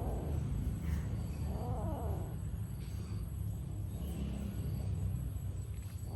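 A short animal call that rises and falls in pitch about two seconds in, over a steady low rumble.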